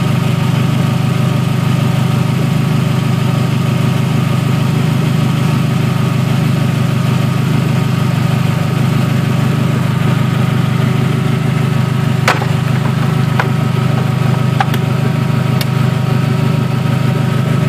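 Modified Toyota Camry's 2.2-litre four-cylinder engine with a cone air filter and wrapped header, idling steadily with the hood open. A few sharp clicks come in the second half.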